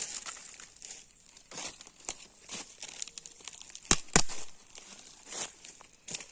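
Irregular rustling and crackling, with two sharp snaps about four seconds in.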